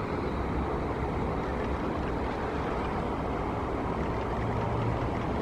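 Steady low rumble of vehicle traffic, with a deeper engine hum swelling briefly near the end.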